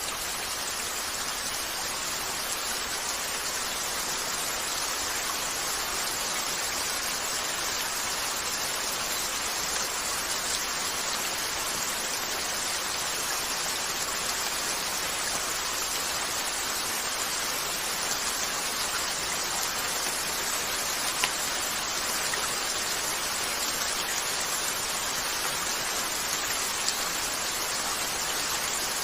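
Steady rain falling on a window, with a few isolated sharp crackles from a wood fire.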